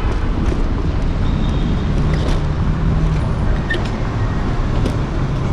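Steady city street traffic noise, a dense low rumble, picked up by a camera on the handlebars of a moving electric scooter.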